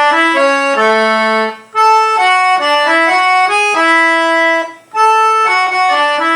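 A simple melody played note by note on a sustaining instrument with a reedy tone, in three short phrases separated by brief pauses. This is the phrase of the tune whose note names were just spelled out in A major.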